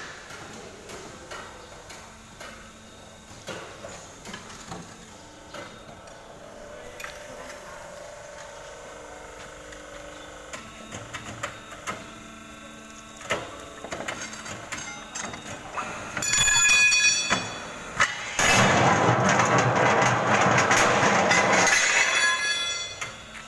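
Automatic tyre-changing machine at work: scattered knocks and clanks of metal against the wheel, then two loud stretches of machine noise, a short one at about two-thirds of the way through and a longer one of about three seconds near the end.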